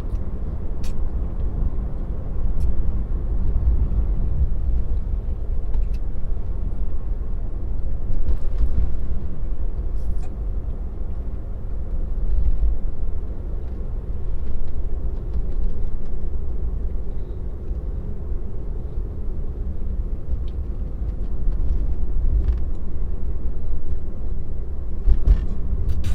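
Steady low road and tyre rumble inside a Tesla's cabin as it drives, with a few faint scattered ticks.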